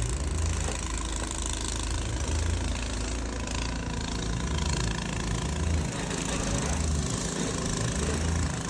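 A vehicle engine running steadily, with a low throb that swells and fades every second or so under a constant rumble and hiss.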